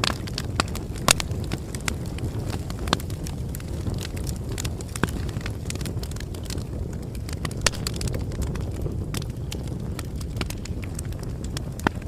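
Bonfire burning: a steady low rumble of flames with wood crackling and popping at irregular intervals. The sharpest pops come about a second in and again near the end.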